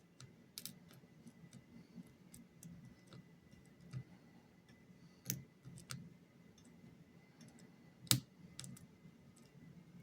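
Irregular small metallic clicks and taps of a lock pick and tension wrench working the serrated, tapered pins of a challenge lock cylinder, the sharpest click about eight seconds in.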